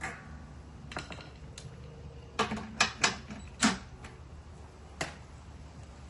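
A series of sharp clicks and knocks, about eight in all, the loudest four close together in the middle: tools and parts being handled during work on the mower deck.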